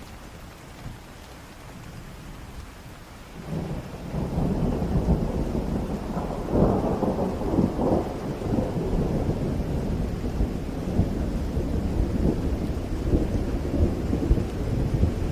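Rain falling with a long roll of thunder that breaks in about three and a half seconds in, crackles loudest a few seconds later, and keeps rumbling low and heavy.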